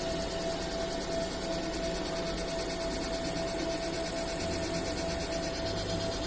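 Laser marking machine running: a steady hiss with one constant whine held throughout.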